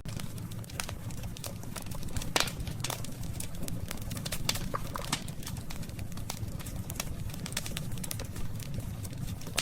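Wood fire crackling: irregular sharp pops and snaps, the loudest about two and a half seconds in, over a steady low rumble of burning.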